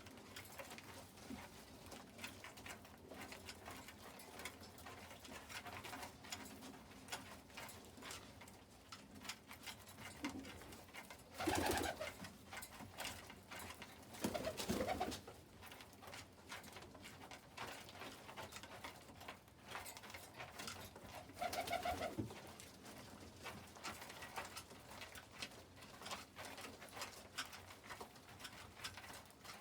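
Domestic pigeons cooing in a loft, with a steady patter of faint ticks and taps throughout and three louder calls or flutters about 12, 15 and 22 seconds in.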